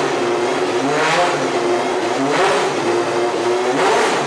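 Ferrari 550 Maranello GT race car's V12 engine revved in short throttle blips, three in a row about one every second and a half, dropping back to idle between each.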